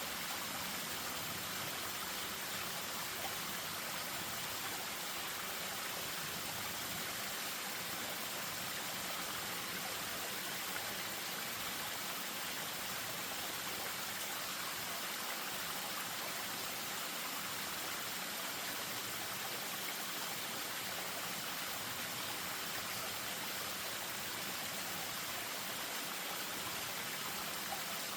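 Spring-fed stream running down a small waterfall: a steady, even rush of water.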